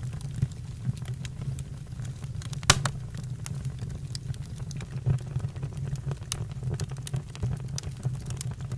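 Campfire crackling: irregular sharp snaps over a steady low rumble, with one louder snap a little under three seconds in.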